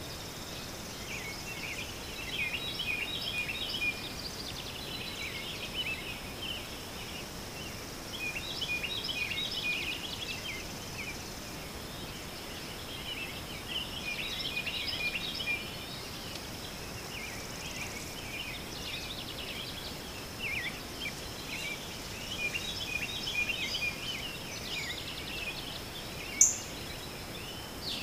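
Birds chirping in short bouts every few seconds, over a steady high whine, with one sharp high chirp near the end.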